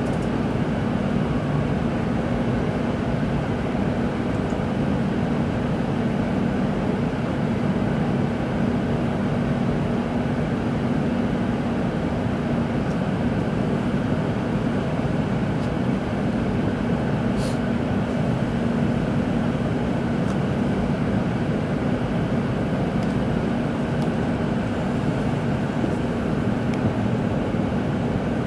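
Steady interior noise of a Tokaido Shinkansen car, an even rush of sound with a constant low hum.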